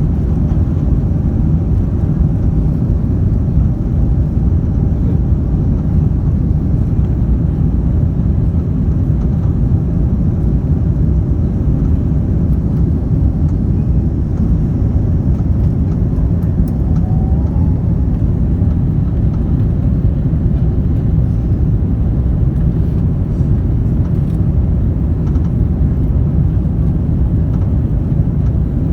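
Airbus A330 airliner's engine and airflow noise, a steady low-pitched rumble that stays even, without rising or falling.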